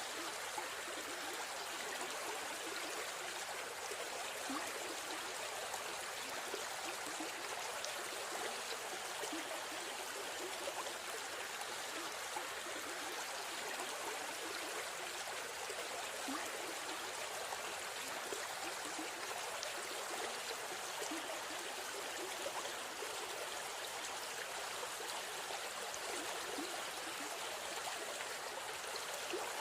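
River stream flowing steadily, a continuous rush of running water with small trickles and gurgles.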